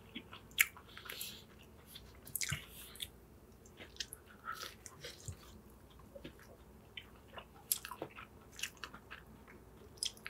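Close-miked chewing of a fried chicken sandwich on grilled, crusty bread: scattered soft crunches and moist mouth sounds, with one sharper crunch about half a second in.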